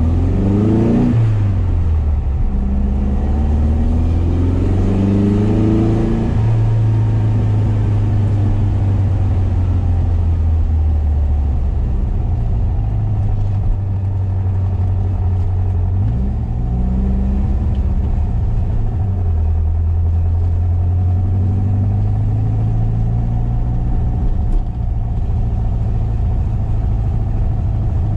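1973 VW SP2's air-cooled flat-four with dual 40 carburettors and stainless exhaust, heard from inside the cabin: it revs up through the gears with two upshifts in the first six seconds, then runs at a steady cruise. About halfway through the revs rise briefly and fall again.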